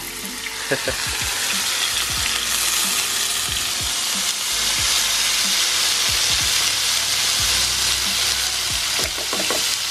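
Diced tofu sizzling in hot corn oil in a frying pan as more cubes are scraped in with a plastic spatula, the sizzle growing louder after a couple of seconds as the pan fills.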